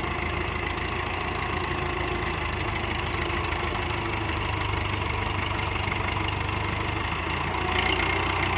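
Diesel tractor engine running steadily, without revving.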